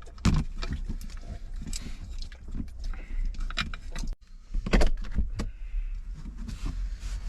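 A few knocks and clinks from a cooking pot being handled, roughly a second and a half apart, over a steady low rumble.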